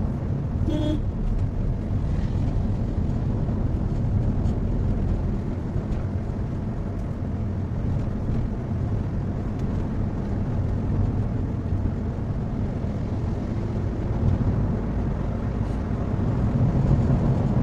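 Maruti Suzuki Swift being driven: a steady low rumble of engine and road noise. A short, high beep-like tone sounds about a second in.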